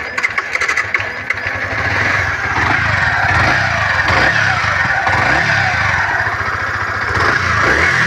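Yamaha R15 V3's freshly rebuilt single-cylinder engine running, its revs rising and falling a few times, with a sucking, hissing intake sound because it is running without its air filter fitted.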